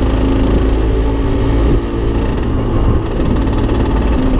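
Aprilia RS 125's liquid-cooled single-cylinder two-stroke engine running steadily under light throttle while the bike is ridden gently, not yet up to operating temperature. Wind and road noise rumble on the bike-mounted microphone, and the sound dips briefly about two seconds in.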